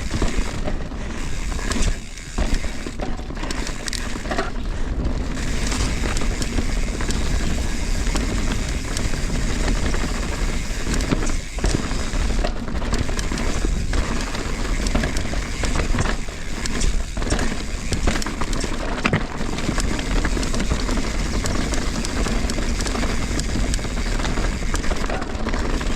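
Mountain bike riding over a rocky trail: a steady rush of wind on the riding camera's microphone, with the tyres rolling over rock and gravel and the bike rattling and knocking over bumps.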